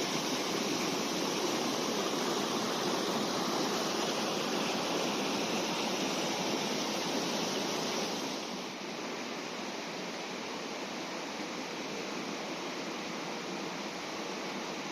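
Fast-flowing river water rushing steadily over rocks, a constant hiss and rush that becomes a little quieter a bit past halfway.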